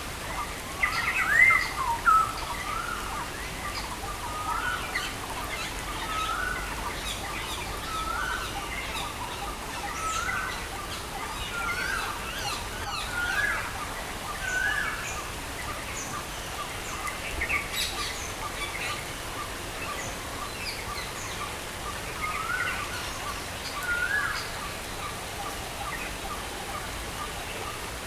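Songbirds chirping over a steady hiss of rain; one bird repeats a short rising-then-falling call about every second and a half, with scattered higher chirps from others.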